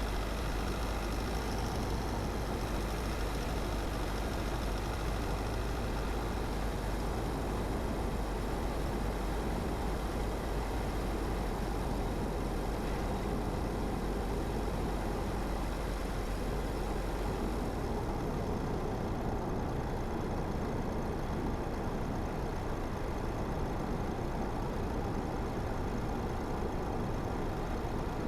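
Car driving along a road: steady road and tyre noise over the engine's hum. The deep rumble and the high hiss both ease about two-thirds of the way through.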